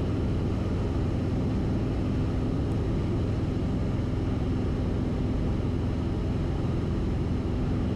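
Cessna 172RG's four-cylinder Lycoming engine and propeller droning steadily, heard inside the cabin, at reduced approach power in the landing pattern.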